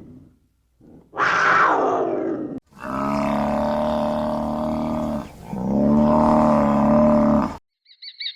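A large animal calling: a short call falling steeply in pitch, then two long, steady, deep calls.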